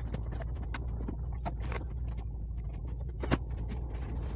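Clicks and knocks of a car's dashboard blower-fan housing being worked loose and pulled out, two sharper knocks near the end, over a steady low hum.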